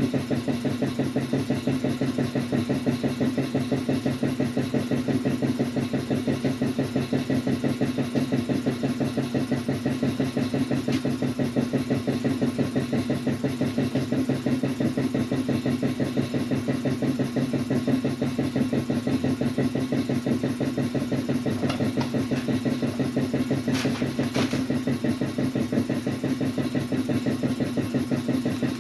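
Pneumatic dual-action sander running steadily on body filler, a constant machine hum with fast even pulsing and a short higher rasp about three-quarters through.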